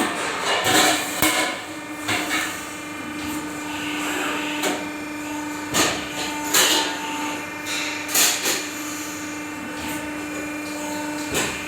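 Irregular hammer blows and knocks on metal workpieces, roughly one every second or so, over a steady machine hum.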